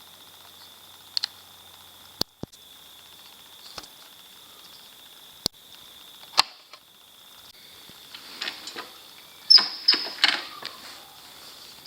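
Single sharp clicks from the switches and levers of a Honda CT110 postie bike being set for a cold start, then a quick cluster of clunks and rattles near the end, with the engine not yet running. A faint steady high whine sits underneath throughout.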